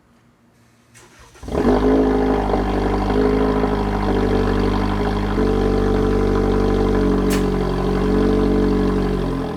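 Car engine cranking briefly and catching about one and a half seconds in, then running steadily at idle.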